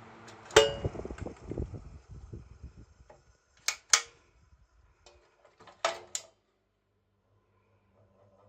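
1971 Sanyo EK-25KR ventilation fan humming, then cut off with a loud click about half a second in and its motor rumbling down. Two pairs of sharp switch clicks follow, then a few seconds of near silence, and the fan's hum starts faintly again near the end.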